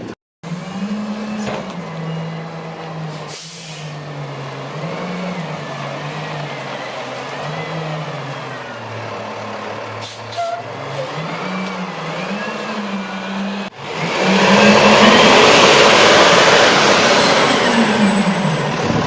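International garbage truck's engine running, its revs rising and falling. About 14 s in, a much louder whine comes in for about 5 s, rising then falling in pitch, as the truck backs up fast.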